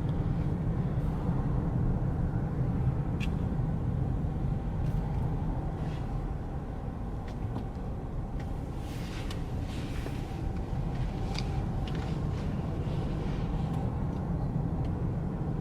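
Steady low road and engine rumble heard inside a moving car's cabin, with a few faint, scattered clicks.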